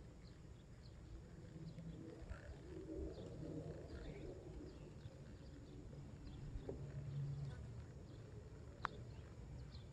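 Faint bird calls and chirps over a low steady outdoor background, with a single sharp click near the end.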